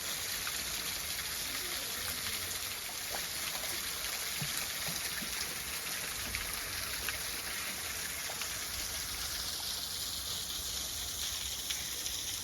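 Steady rushing and trickling of flowing stream water, with a few faint ticks.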